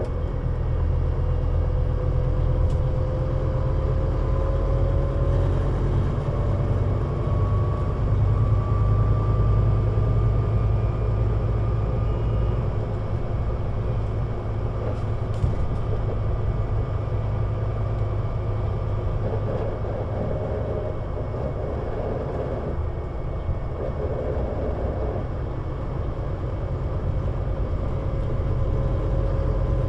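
Scania CN320UA 6x2/2 articulated city bus (Citywide LFA) driving, its engine rumbling steadily under a thin drivetrain whine that rises in pitch as the bus accelerates through the first dozen seconds, then holds at a steady cruise; the whine picks up again near the end.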